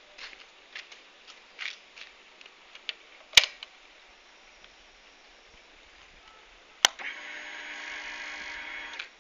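Light clicks and handling noises, with a sharp click about a third of the way in and another near two-thirds. Then a Honda CBR250R's electric fuel pump whirs steadily for about two seconds as the ignition is switched on, priming before the engine is started.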